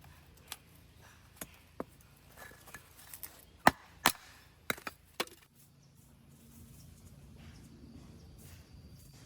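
Firewood being worked by hand: about seven sharp wooden knocks and cracks over the first five seconds, the loudest about halfway through. After that only a faint steady hum remains.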